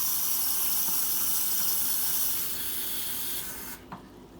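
Water running steadily into a container, stopping abruptly near the end.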